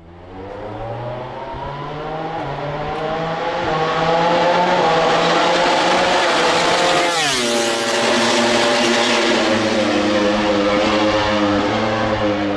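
A 2019 Honda RC213V MotoGP bike's V4 engine approaching at speed, its note climbing steadily and growing louder. About seven seconds in, it passes and the pitch drops sharply, then the engine carries on at a steady lower note.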